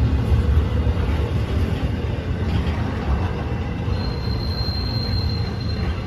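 A train rolling past with a steady low rumble. About four seconds in, a thin, high-pitched wheel squeal starts and holds for nearly two seconds.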